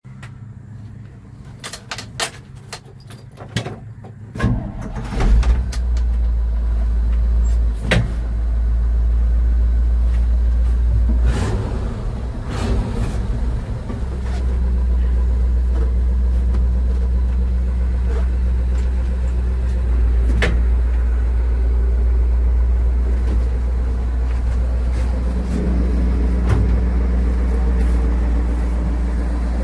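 A few clicks and knocks, then the 1973 Chevrolet C60 grain truck's 350 V8 starts about five seconds in and runs at a steady idle, with an occasional sharp knock over it.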